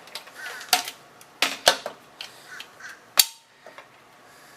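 Sharp metallic clicks and knocks of a bolt and hand tools against the motorcycle's fender mounting, as a fender bolt is started: a few separate clacks, the loudest two about a second and a half apart, with light rattling between them.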